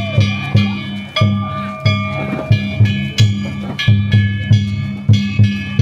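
Danjiri festival music (danjiri-bayashi): a big taiko drum and hand-struck gongs (kane) played in a fast, even beat of about three strokes a second. Each deep drum thud comes with ringing metal tones from the gongs.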